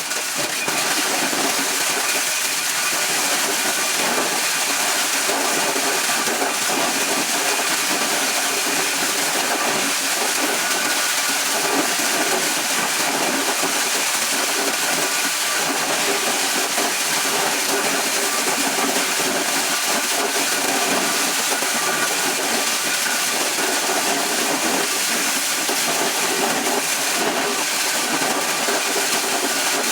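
A motor-driven corn shelling machine running steadily: an even, loud hiss with faint steady tones under it.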